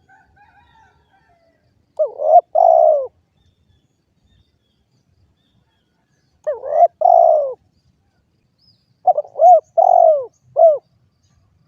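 Derkuku (spotted dove) cooing: three phrases of short coos, about two seconds in, about six and a half seconds in, and near the end. Each phrase ends on a longer falling note, and the last phrase has more notes than the others.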